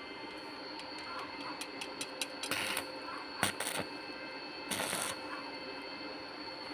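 Hand-tool work on a small part: a run of light clicks, then a few short scraping strokes and one sharp knock, over a steady background hum.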